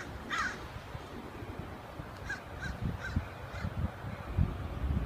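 A bird calling: one loud harsh call just after the start, then four fainter, shorter calls about two to three and a half seconds in. Low thumps and rumble sit underneath, strongest near the end.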